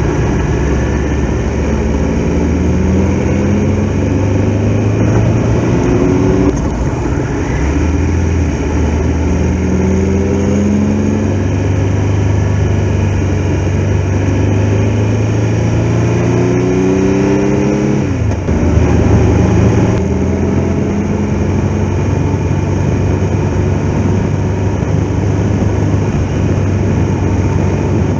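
Triumph Tiger Explorer's three-cylinder engine pulling through the gears under way, with wind rush. Its pitch rises several times, dropping at each upshift, the last about two-thirds of the way through, then it holds steady at cruising speed.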